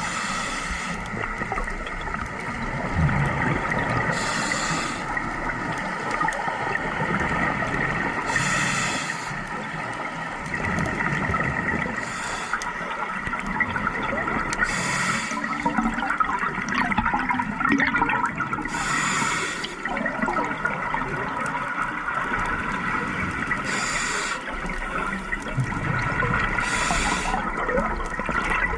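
A scuba diver breathing through a regulator underwater: a hiss about every four seconds, with gurgling bubbles between, over a steady hum.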